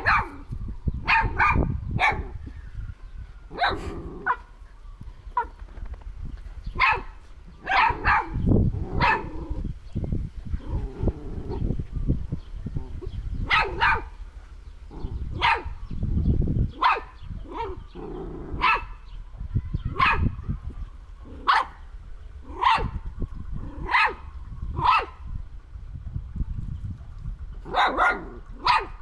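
A dog barking repeatedly in short, sharp barks, often two at a time, every second or two, over a low rumble.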